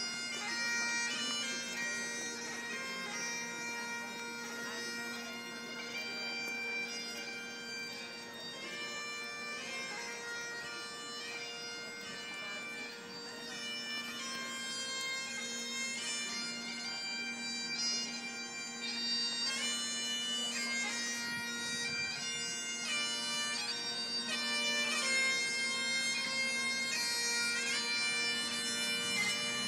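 Bagpipes playing a tune over their steady drones, the melody notes changing above a constant low hum.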